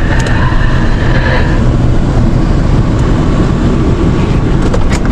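Vehicle running, heard from inside: a steady, loud rumble of engine and road noise, with a few light clicks near the end.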